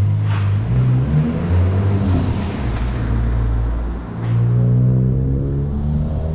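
Volkswagen Golf GTI's 2.0 TSI turbocharged four-cylinder engine running under way, its pitch shifting up and down, with a brief hiss just after the start and again about four seconds in. The engine note rises steadily over the last two seconds as the car accelerates.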